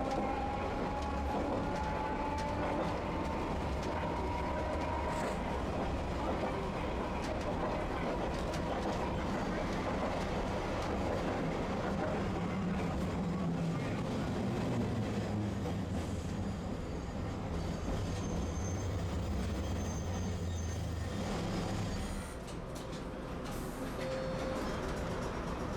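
Tosaden streetcar running, with a steady rumble of wheels on the rails and a whine that rises in pitch at the start as it picks up speed. The low rumble drops away about 22 seconds in.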